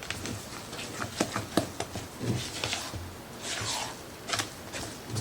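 Kitchen handling sounds: scattered light clicks and knocks of utensils against a bowl, with a soft rustle, while cornbread batter is being seasoned.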